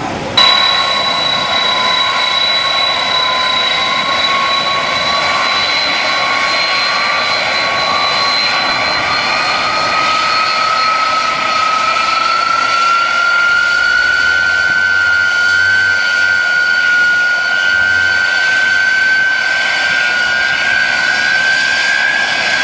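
Airliner's turbine engines whining steadily at close range, the whine slowly rising in pitch as the engines spool up. It starts suddenly about half a second in.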